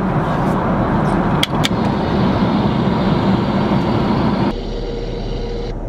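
Steady drone of a jet airliner's cabin in flight. Two sharp clicks come about a second and a half in. Near the end a motorized drinks compartment in the seat hums briefly as it opens.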